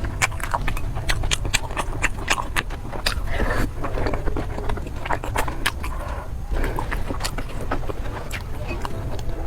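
Rapid, irregular sharp clicks and knocks over a steady low rumble.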